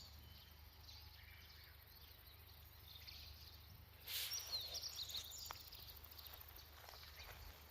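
Faint campsite ambience: a steady low rumble with a few faint, high bird chirps. A short rush of noise about four seconds in is followed by a quick cluster of chirps.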